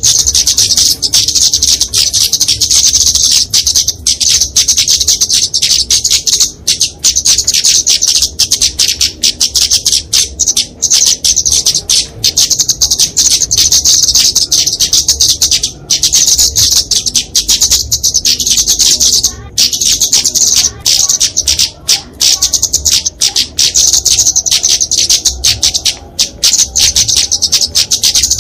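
Flowerpecker (kemade, genus Dicaeum) giving fighting calls: a dense, almost unbroken stream of rapid, high, thin ticking notes with only a few short breaks.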